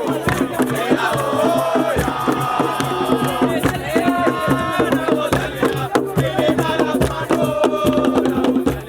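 Voices singing or chanting a melody over rhythmic percussion with rattles and sharp strikes.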